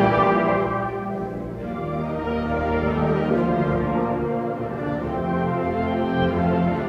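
Concert wind band playing sustained, full-ensemble chords, with brass including French horns prominent.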